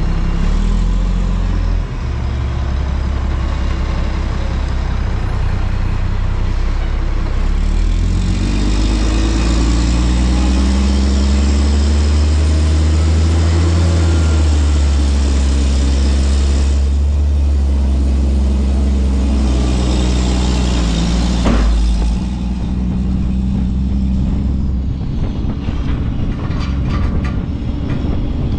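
Front-loader garbage truck's diesel engine running, then revving up about eight seconds in and held high for roughly twelve seconds, as it does to power the hydraulics. A sharp bang comes about twenty-one seconds in, and the engine then drops back to a lower speed.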